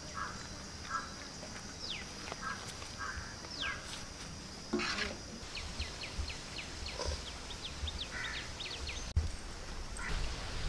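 Birds calling: two long downward-sliding whistles, then a quick run of short descending chirps, over a steady high-pitched whine. A short clatter about five seconds in is the loudest sound.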